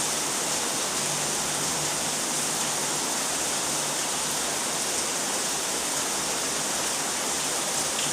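Rain falling during a thunderstorm, an even, unbroken hiss.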